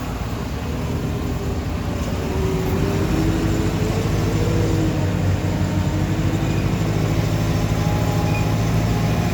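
Big construction forklift's engine running steadily while it drives, heard from the seat, with the revs climbing a little a few seconds in.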